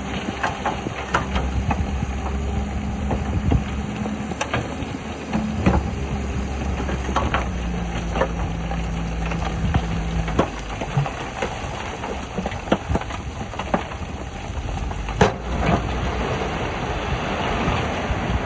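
Diesel engines of heavy earthmoving machinery running, their pitch shifting a few times, with scattered sharp clanks and knocks; the loudest knock comes about fifteen seconds in.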